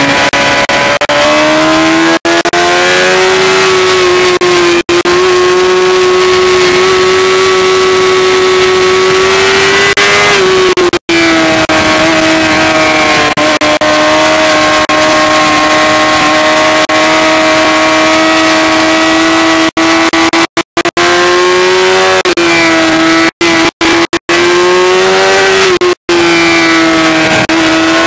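Suzuki GSX-R750's inline-four engine heard from on board at high revs on a race track. Its note holds steady for long stretches and dips and climbs again a few times, with several brief sharp cut-outs in the sound.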